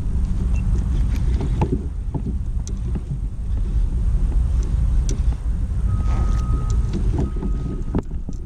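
Wind rumbling on the microphone in a kayak on open water, with scattered small knocks and clicks. In the last few seconds a thin high tone sounds in short stretches, and a sharp knock comes near the end.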